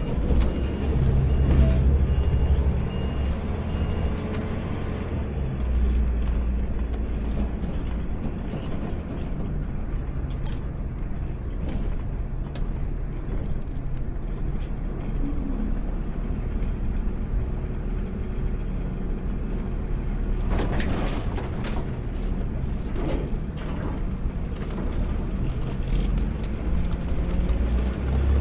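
Automated sideload garbage truck's engine running, heard from inside the cab, louder for a few seconds near the start. Two short hisses of air come about two-thirds of the way through.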